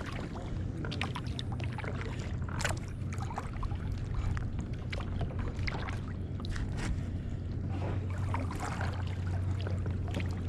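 Kayak paddling: irregular splashes, drips and light knocks as paddle blades dip into the water, over a steady low hum.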